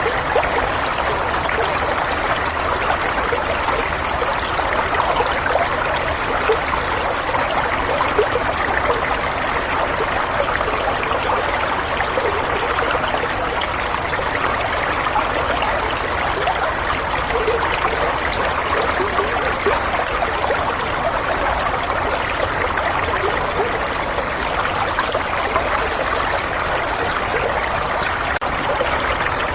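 Water running steadily, like a stream or trickle, with an even rushing splash and no breaks.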